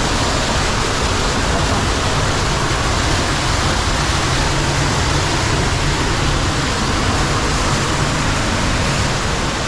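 Water rushing steadily through a cave stream, a loud, even rush with no let-up.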